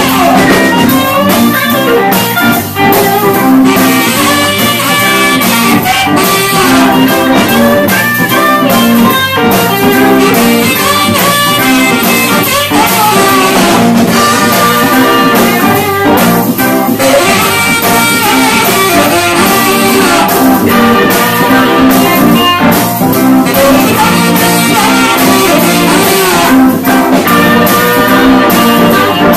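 Live rock band playing an instrumental passage, guitar to the fore over the full band, with no singing.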